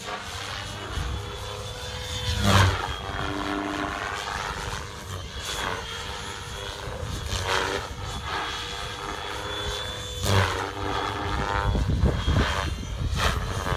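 Gaui X7 electric RC helicopter with a three-blade main rotor in flight. The rotor and motor whine swings up and down in pitch several times as it manoeuvres, with a thin steady high tone above it. Wind buffets the microphone.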